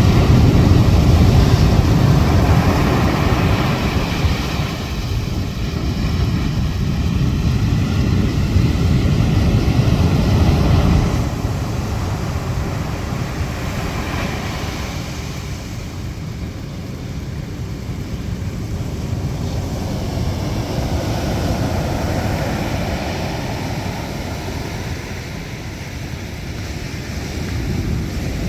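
Strong wind rumbling on the microphone over breaking surf in storm-wave conditions; the rumble is heaviest for the first ten seconds or so, then eases and swells slowly.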